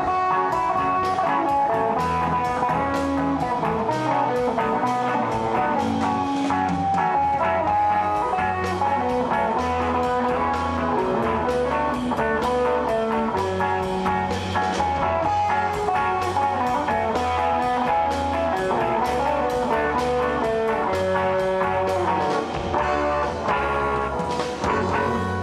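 A band playing a song led by guitar, over a steady bass line and drum kit.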